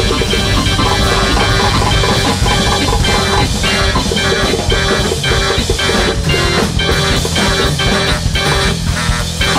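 Live performance by a large free-jazz-based big band, ensemble playing with guitar and drums over a steady beat.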